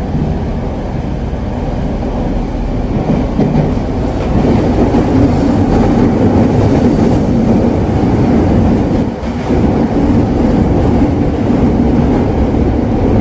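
Rinkai Line 70-000 series electric train heard from inside the passenger car while running between stations: a steady low rumble of wheels and running gear on the track. It grows a little louder about four seconds in and dips briefly near nine seconds.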